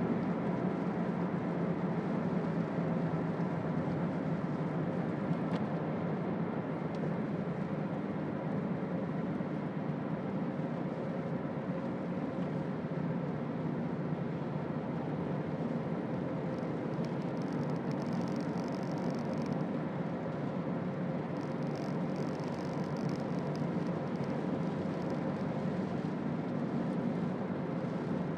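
A Toyota Auris 1.4 D-4D four-cylinder turbodiesel drives along: a steady engine drone mixed with tyre and road noise. A faint high hiss comes and goes in the second half.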